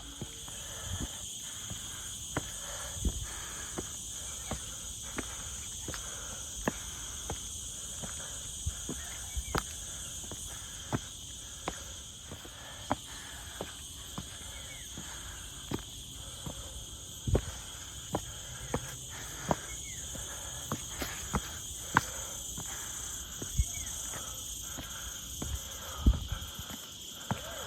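Footsteps at a walking pace, a sharp step every second or less, over the steady high-pitched drone of insects in the forest.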